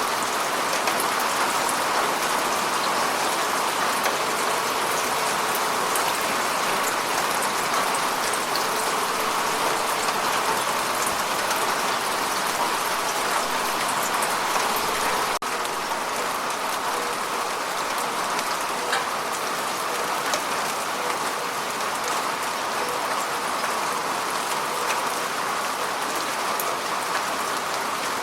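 Heavy rain falling steadily in a continuous hiss. About halfway through there is a momentary dip, and the rain is slightly quieter afterwards.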